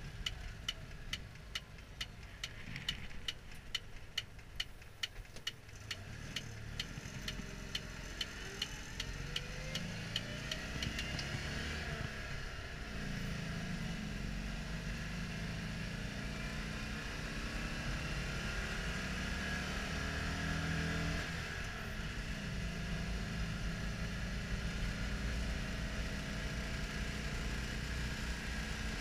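Citroën Dyane 6's small air-cooled flat-twin engine heard from inside the cabin while driving, rising in pitch as the car accelerates and dropping back at gear changes, about twelve seconds in and again about nine seconds later, then running steadily at cruising speed. During roughly the first ten seconds a sharp regular ticking comes faster and faster as the car speeds up, then fades out.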